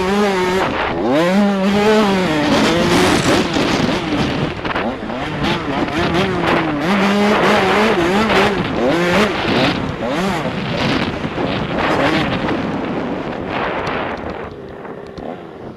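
85cc two-stroke motocross bike engine revving hard, its pitch climbing and dropping over and over as the rider works the throttle and gears, heard from a helmet-mounted camera. It eases off and quietens near the end.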